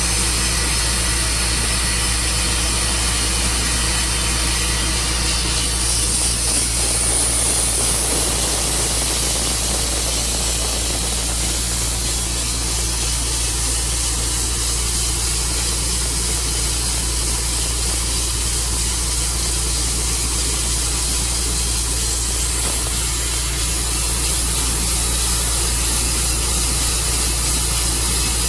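Tru Cut band sawmill running steadily, its engine humming under a loud, even hiss.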